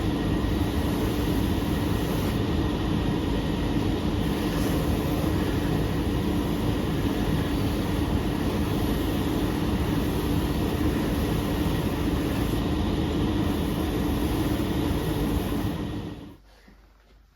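A workshop machine running steadily with a low hum and a loud rushing noise, dying away about a second before the end.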